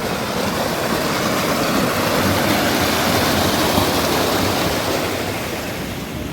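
Heavy rain falling, a dense steady hiss that swells through the middle and eases a little near the end.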